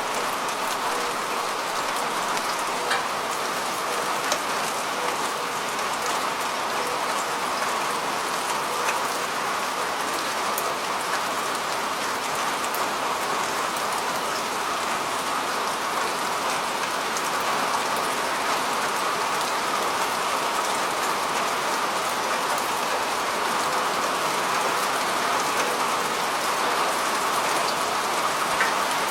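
Steady rain falling on a rooftop: an even patter with scattered sharper drop ticks.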